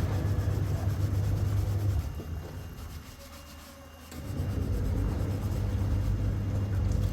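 A rubbing or scrubbing sound in two long stretches, with a pause of about two seconds in the middle.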